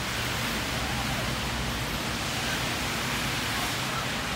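Rain falling on wet pavement: a steady, even hiss.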